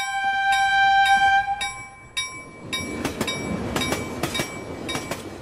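Train horn sounding one steady blast for about two seconds over a bell dinging. Then a train rolls past, its wheels clicking in a steady rhythm over the rail joints.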